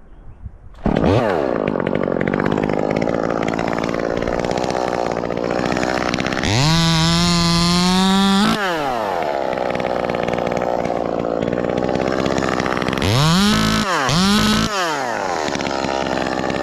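A ported Echo 2511T top-handle chainsaw's small two-stroke engine comes in loud about a second in. About six seconds in it revs up to a high steady full-throttle pitch for two seconds, then drops back. Near the end it gives two short revs.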